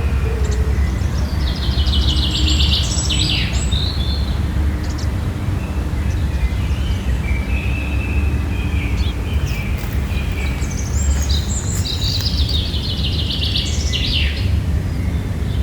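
A songbird singing two similar phrases, each a quick run of repeated high notes ending in a downward slide, with a few thinner calls between them, over a steady low rumble.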